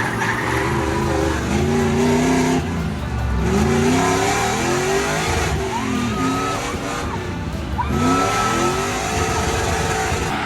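LS V8 engine of an Audi S4 drift car revving up and falling back several times as it drifts, with short tyre squeals about six and eight seconds in.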